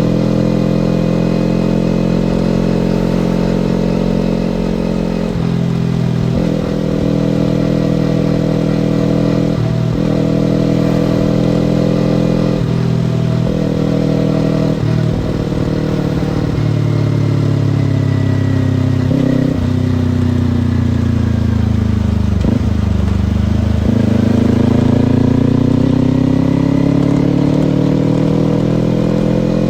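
Kawasaki Ninja sport bike engine running on the move, its pitch stepping up and down through several gear changes in the first half. Later it falls steadily as the bike slows, then rises again as it accelerates away.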